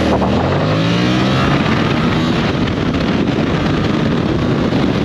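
Yamaha Tracer 7's 689 cc parallel-twin engine accelerating away from a stop, its pitch rising over the first second or so. It then runs on at speed under a steady rush of noise.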